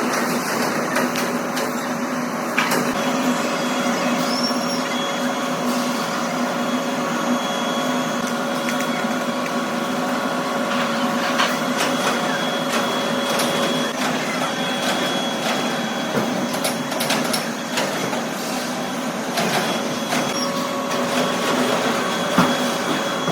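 Workshop machinery running steadily with a constant hum over a noisy din, broken by scattered sharp clicks and knocks.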